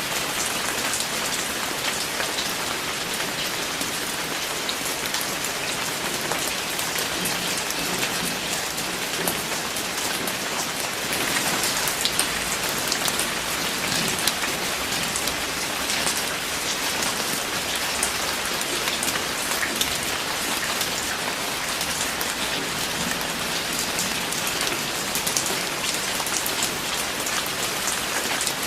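Steady rain falling, with many fine drop patters on a hard surface and a slightly heavier spell about twelve seconds in.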